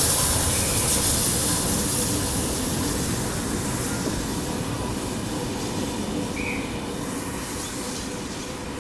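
A train of heritage passenger carriages rolling past on the rails, the rumble of its wheels fading steadily as the train draws away.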